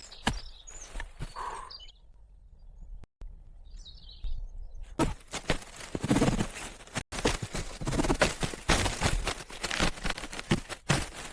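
Rustling and crunching handling noises, sparse at first and dense from about five seconds in, with a short bird chirp about four seconds in.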